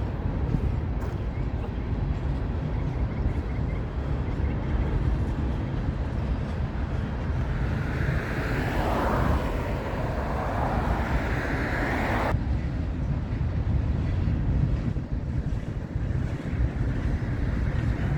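CSX freight train rolling by, a steady low rumble with wind buffeting the microphone. A hissing noise swells about eight seconds in and cuts off abruptly about four seconds later.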